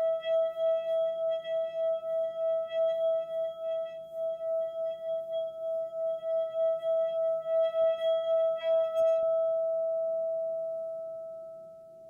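A single sustained ringing tone of calming meditation music, like a singing bowl, wavering about four times a second. About nine seconds in the bright overtones fade out, leaving a smoother, purer hum that briefly dips near the end.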